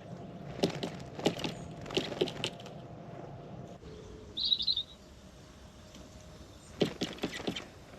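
Two quick runs of sharp knocks or taps, one near the start and one near the end, with a short high-pitched bird chirp in the middle.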